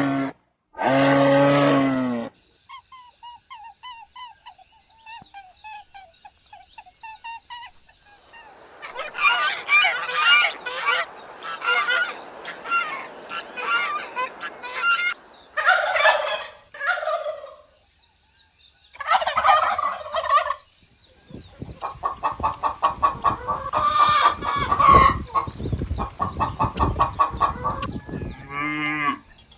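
Poultry calling in a run of short clips: turkeys gobbling and chickens clucking, with quick repeated clucks near the end. Two long pitched calls from another animal open the stretch, and light chirping follows them.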